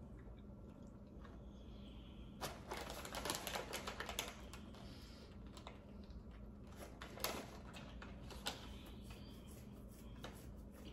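Close-miked biting and chewing of a sub sandwich: a run of crisp, crunchy clicks about two and a half seconds in, then a few single crunches later.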